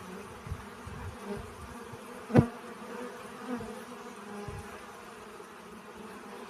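A bee buzzing steadily as it collects pollen from flowers, with a single sharp knock about two and a half seconds in and a few soft low thumps.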